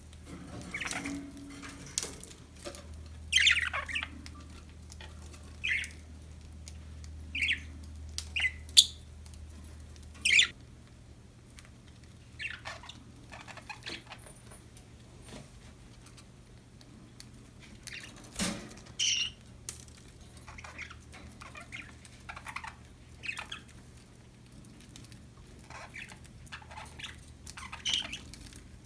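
Pet budgerigars chirping in short, scattered calls, with a few sharp clicks among them.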